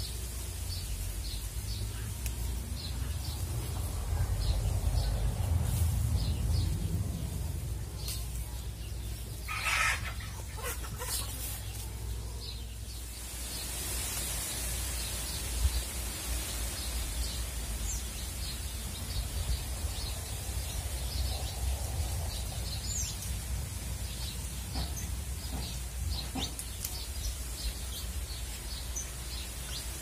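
Outdoor ambience of small birds chirping over and over, with a steady low rumble underneath and one louder, brief bird call about ten seconds in.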